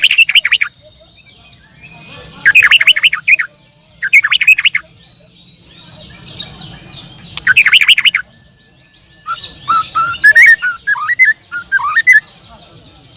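Songbirds singing at a bird-song contest: four short, loud bursts of fast trilled notes in the first eight seconds, then a longer, more varied warbling phrase of rising and falling notes.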